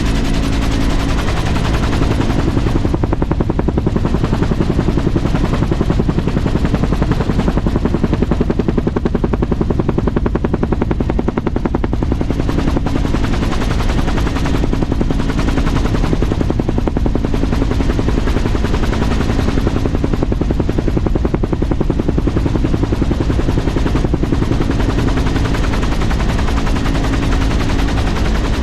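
Helicopter running at close range: a loud, steady, rapid beat of rotor-blade slap over engine noise.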